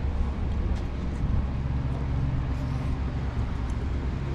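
Steady low hum of a car driving: engine and road noise.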